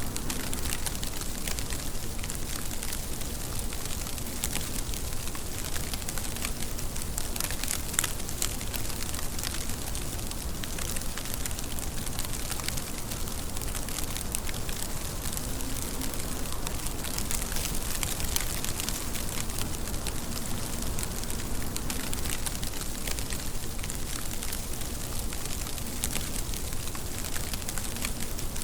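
Steady rain: a dense, even hiss with many sharp little drop ticks pattering on a surface.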